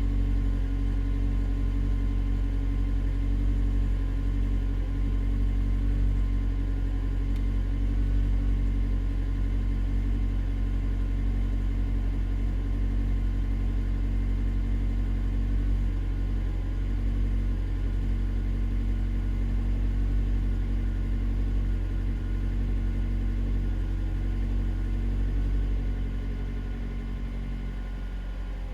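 Suzuki Swift Sport ZC32S's 1.6-litre inline-four idling steadily through an HKS Legamax Premium aftermarket exhaust, a low even rumble that eases slightly near the end.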